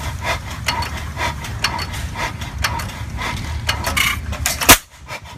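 Old engine running with a steady low rumble and a sharp knock about twice a second. A louder bang comes near the end, and the sound briefly drops away after it.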